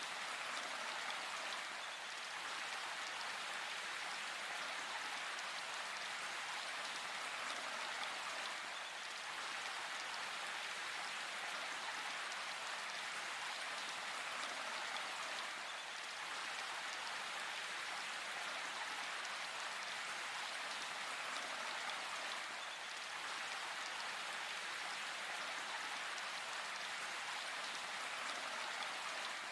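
Steady rain falling in a forest, an even patter of drops on leaves and surfaces without thunder or distinct single drops.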